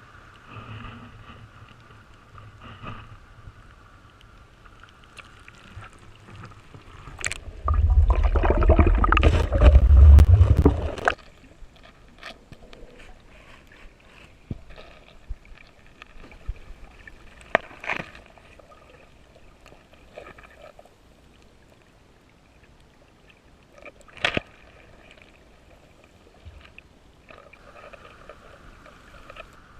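Water sloshing and gurgling with scattered sharp clicks. A loud low rumble lasts about three seconds, starting a little after the seventh second.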